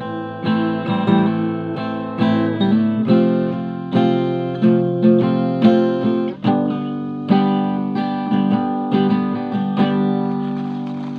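Acoustic guitar played in a steady rhythm, strummed and picked chords ringing out, with no singing.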